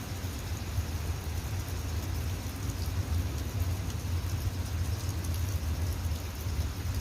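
Steady rain falling, with scattered raindrop ticks over a constant low rumble.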